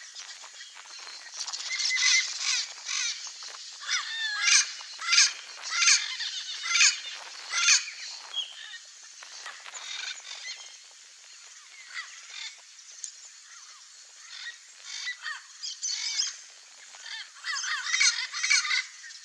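Turquoise-fronted parrot (Amazona aestiva) calling in a rapid series of short, wavering calls. The calls come thick in the first half, thin out through the middle, and pick up again near the end.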